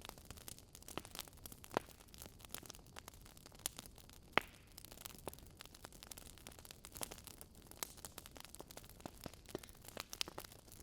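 Barbecue fire burning in a fireplace, crackling with many irregular small pops over a soft hiss, one sharper pop about four seconds in.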